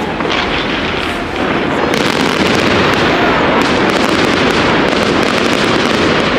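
Fireworks display: aerial shells bursting overhead, a dense, continuous crackling and banging that grows heavier about two seconds in.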